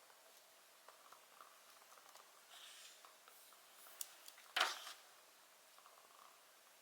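Fireplace crackling softly with scattered small ticks, then a sharp crack and a short, louder crackling burst a little past halfway.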